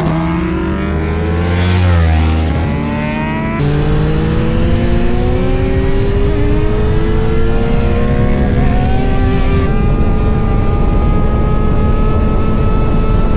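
Motorcycle engine running under way, its note dropping and rising over the first few seconds, then climbing steadily in pitch as the bike accelerates, then holding a steady higher note. The sound jumps abruptly twice, about 3.5 s and 10 s in.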